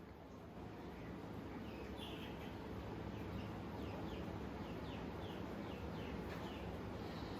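A small bird chirping over and over, short falling chirps about two a second, over a steady low hum.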